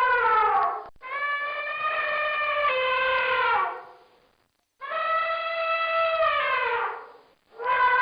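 A series of long, brassy, trumpet-like animal calls, each held for two to three seconds and falling in pitch as it fades, with short breaks between them.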